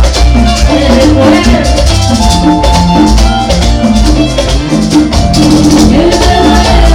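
Loud live Latin dance band music from an orquesta, with maracas shaking over held melodic notes and a heavy bass line.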